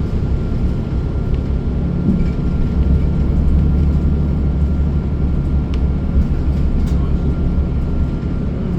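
Interior of a moving city bus: steady low engine and road rumble, with a faint constant high whine and a few small rattles or clicks.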